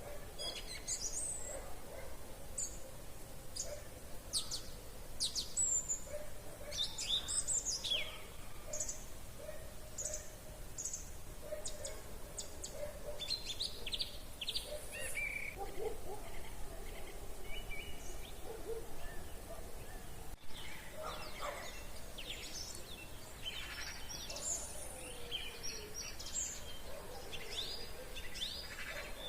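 Several songbirds singing in an evening chorus, with many short chirps and whistles overlapping from different birds.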